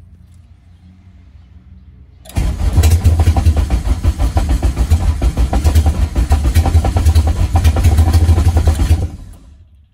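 Honda K24 engine in an EG Civic hatch being started. After a low hum, it fires about two seconds in and runs loudly and steadily for around six seconds, then cuts off and dies away.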